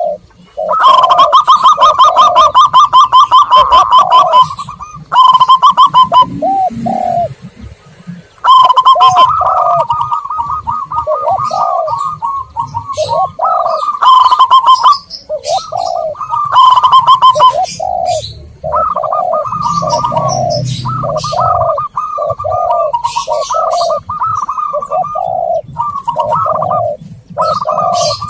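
Zebra doves and spotted doves cooing, played as a bird-lure call: fast runs of short pulsed notes alternate with lower, rounded coos repeated about twice a second, with a few short pauses.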